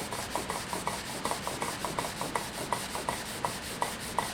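Wet sanding the finish of a wooden stave drum shell with 400-grit sandpaper: short, rhythmic rubbing strokes, about three a second.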